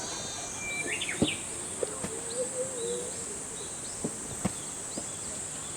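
Outdoor campsite ambience: a steady high insect buzz with birds chirping now and then, and a few sharp knocks or clicks scattered through it.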